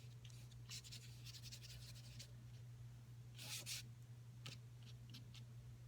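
Faint strokes of a paintbrush working paint on paper: a run of quick light strokes early, one louder stroke about three and a half seconds in, then a few small taps, over a steady low hum.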